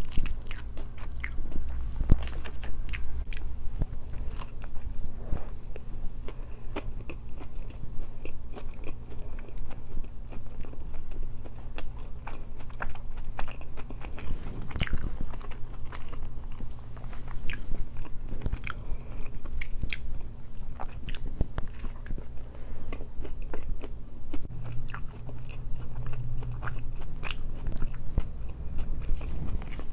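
Close-miked chewing and biting of a chicken wrap: soft, wet mouth sounds with many small crunches and clicks scattered throughout.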